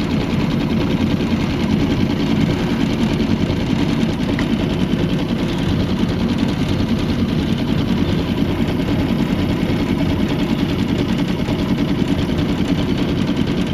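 Outboard motor on a jon boat running steadily with a fast, even chug.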